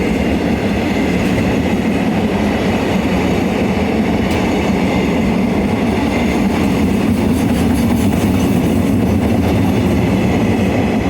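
Freight train rolling past at close range: a steady, loud rumble of steel wheels on rail, with faint regular clicking over rail joints in the latter part.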